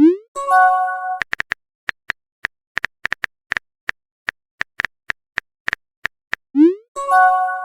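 Phone text-message sound effects: a run of short keyboard tap clicks, a few a second, with two rising swoops that each end in a brief chime-like chord, at the start and again near the end, the message-sent or message-received tone.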